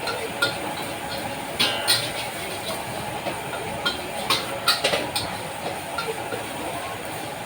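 A metal spatula clanking against a wok at irregular intervals while fried rice is stir-fried, over a steady hiss of cooking.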